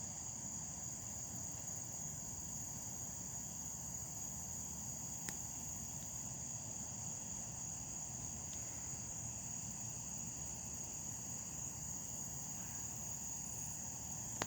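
Crickets chirring in a steady high-pitched chorus over a low rumbling background hiss, with a single faint click about five seconds in.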